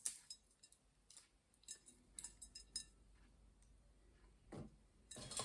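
Faint, scattered clicks and crackles of walnut shell pieces being crunched and handled, with a louder scrape near the end.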